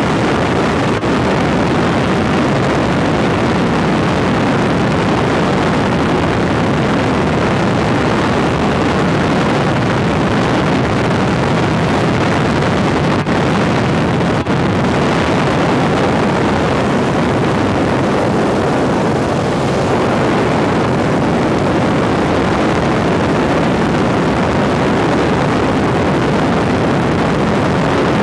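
Helicopter engine and rotor noise heard from inside the cabin in flight: a loud, steady drone that does not change.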